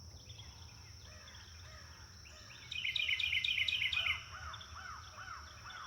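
Birds chirping: a quick run of high chirps about three seconds in, followed by a series of lower, arching whistled notes, about two or three a second.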